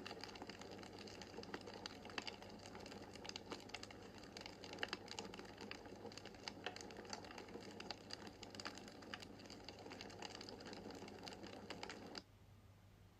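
Wood fire crackling in a fireplace: irregular sharp pops and snaps over a soft steady rush of flame. Near the end the crackling cuts off suddenly, leaving only a faint low hum.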